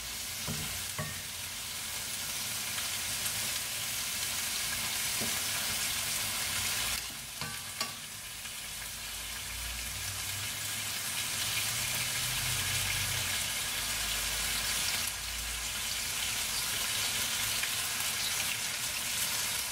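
Stir-fry vegetables sizzling steadily in a stainless steel skillet over high heat, stirred with a wooden spoon, with a few light knocks of the spoon against the pan.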